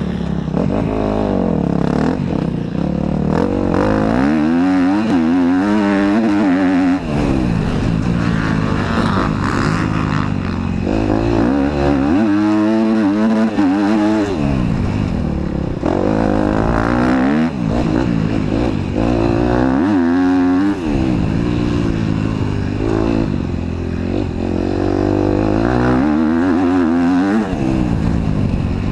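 KTM motocross bike's engine under hard riding on a dirt track, its revs climbing and dropping again and again as the rider opens and closes the throttle.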